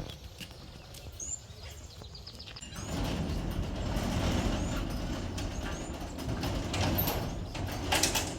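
Small birds chirping. About three seconds in, a louder steady rushing noise of unknown source joins them, with a sharp click near the end.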